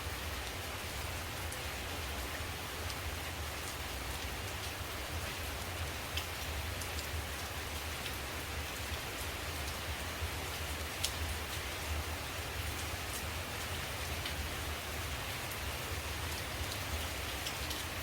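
Steady rain falling on leaves, with a few separate drops tapping now and then.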